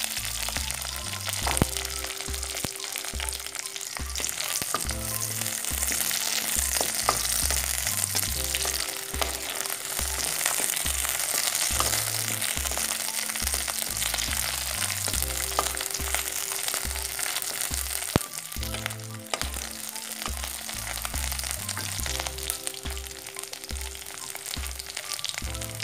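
Garlic cloves and dried red chillies sizzling as they fry in hot oil in a kadai, a steady crackling hiss with scattered small pops. Background music with an even, repeating low beat runs underneath.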